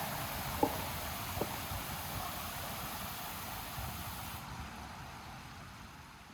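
City street ambience: a steady hum of distant traffic and hiss, with two sharp clicks in the first second and a half. It fades out gradually over the last few seconds.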